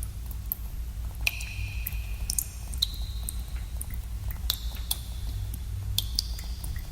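Water drops dripping into a pool in a cave, each a sharp plink with a short ringing tone, about half a dozen at irregular intervals. A steady low rumble of cave ambience runs underneath.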